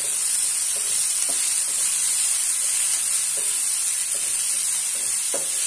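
Chopped onion and tomato sizzling in oil in a non-stick frying pan, with a spatula stirring through them and several soft scrapes against the pan.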